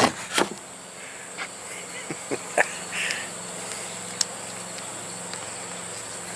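Steady high, thin insect buzzing over a low hum, with a few light clicks and taps in the first three seconds.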